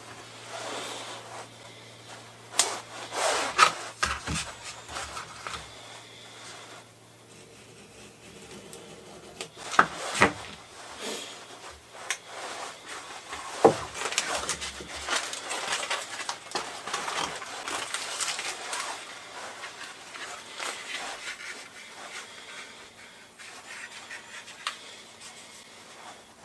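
Objects handled on a workbench: scattered knocks and clicks of things being picked up and set down, with rubbing and scraping in between and a faint low hum underneath for the first half.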